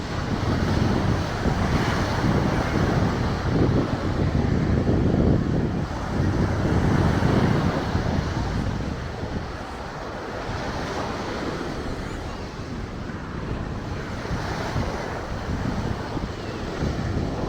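Ocean surf washing on the beach, mixed with wind buffeting the microphone: a rushing noise that swells and eases over several seconds, quieter in the middle.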